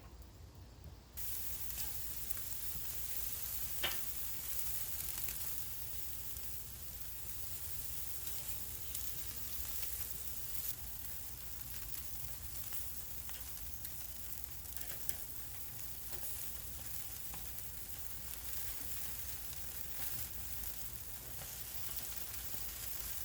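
Stuffed chicken wings sizzling on an oiled grill grate, a steady crackling hiss that starts suddenly about a second in, with one sharp click a few seconds later.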